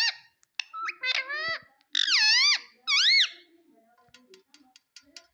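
Pet parrot calling: a run of shrill calls that swoop up and down in pitch, followed by faint rapid ticking near the end.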